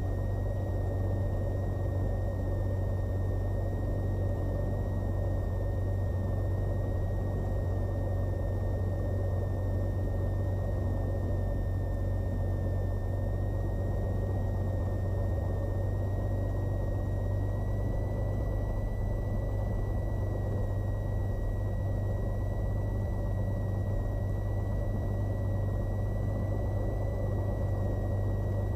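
Cessna 182's piston engine and propeller running steadily at low power, heard inside the cabin as a low drone, with a faint high whine above it that rises slightly past halfway through.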